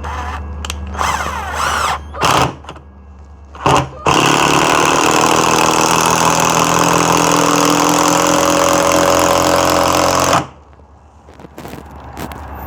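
Avid Power cordless impact driver driving a long screw: a few short trigger bursts, then about six seconds of continuous driving that stops suddenly once the screw is in.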